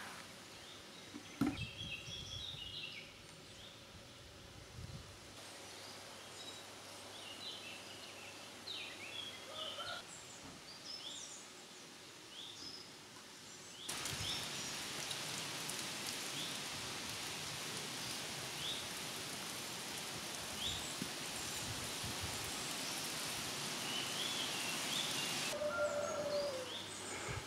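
Outdoor ambience of birds chirping and singing in short calls. About a second and a half in there is a single knock. About halfway through, a steady hiss comes in abruptly and cuts off shortly before the end.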